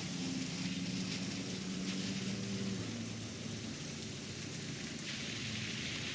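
Water spraying from a garden hose onto the garden, a steady hiss that grows louder about five seconds in. A low hum runs under it for the first three seconds.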